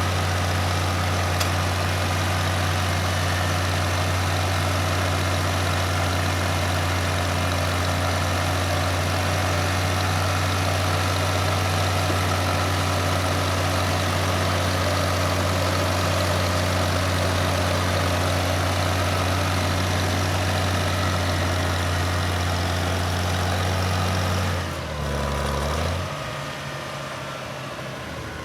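Farmall 560 tractor engine running at a steady, unchanging speed. Near the end its note breaks and drops away, and the sound settles much quieter.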